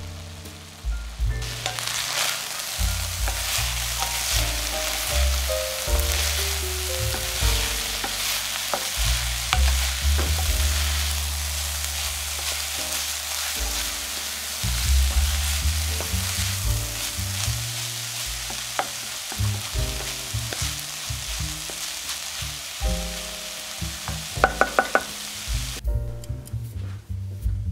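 Pork mince and carrot sizzling in a metal pan while a wooden spatula stirs it, with short scrapes and knocks against the pan. Soft background music plays underneath. Near the end the sizzle stops and only the music is left.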